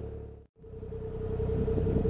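A Suzuki Cappuccino's turbocharged F6A three-cylinder engine holds a steady speed, heard through a pupa Euro aftermarket muffler. The sound fades out to silence for a moment about half a second in, then comes back at the same pitch.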